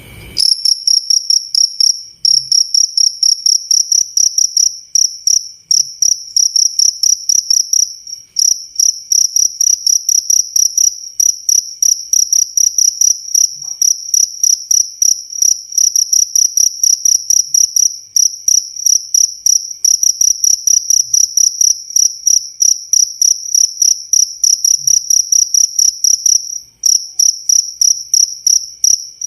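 Cricket chirping close up: a loud, high, clear chirp repeated several times a second in an even run, with a few short breaks.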